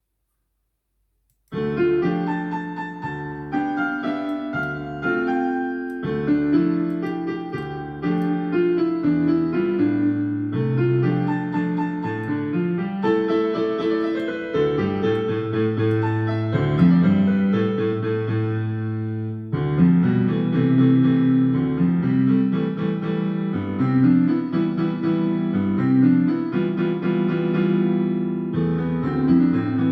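Piano music, a melody over low chords, starting about a second and a half in after silence.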